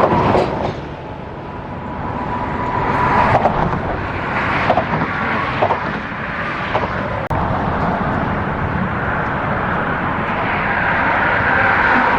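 Road traffic going by: a steady rush of tyres and engines that swells and fades as vehicles pass.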